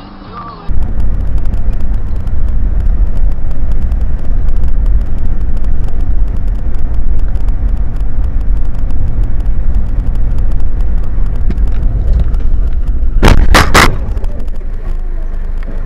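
Steady low road and engine rumble of a car being driven, heard from a dashcam, then a quick cluster of three loud bangs about thirteen seconds in, a collision impact. The rumble goes on a little quieter afterwards.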